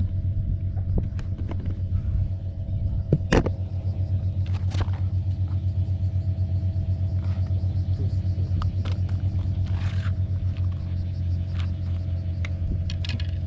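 A steady low engine rumble with a fast, even pulse, like a diesel engine running at a constant speed, with a few sharp clicks and knocks over it.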